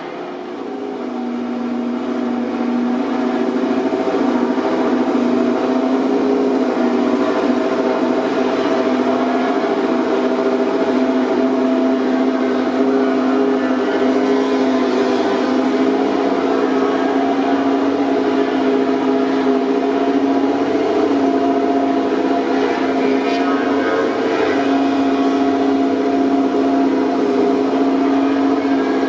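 Racing motorcycle engine held at steady high revs, its pitch rising a little over the first few seconds and then holding even and unbroken.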